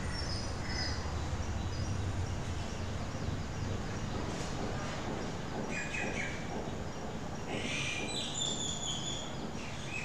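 Birds chirping in short, high calls, a few near the start and more in the second half, over a steady low background hum.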